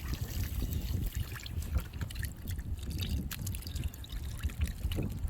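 Wind buffeting the phone's microphone in uneven gusts, with a few faint scattered clicks.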